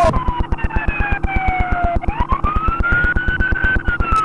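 Police car siren on a slow wail: the pitch falls, climbs again about two seconds in, and starts falling near the end. A rapid, even low-pitched pulsing runs underneath.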